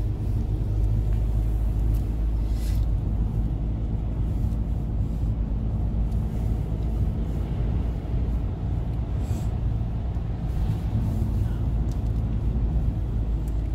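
Steady road rumble inside a moving car's cabin: engine hum and tyre noise while driving.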